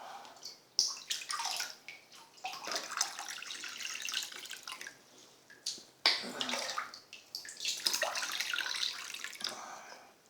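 Water running and splashing into a container in about four separate bursts with short gaps, as more water is added.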